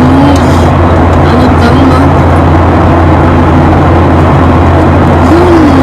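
Steady, loud low drone of an airliner cabin in flight, with faint voices underneath.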